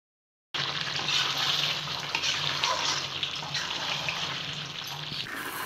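Chicken curry sizzling and bubbling in oily masala in a pan as it is stirred with a spatula, with a low steady hum underneath. This is the oil separating from the masala as the chicken cooks through. The sound starts abruptly about half a second in.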